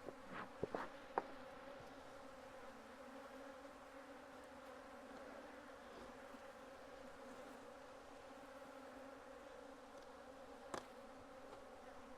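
Steady low hum of a honeybee colony buzzing around a hive being moved, with a few sharp knocks in the first second or so and one more near the end.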